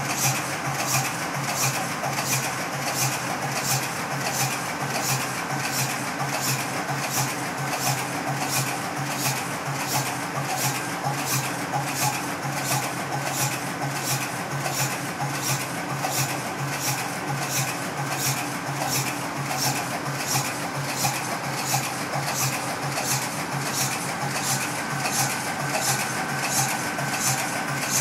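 A ship's main diesel engine, 53 years old, running steadily with a regular metallic clatter of about two beats a second over a low hum.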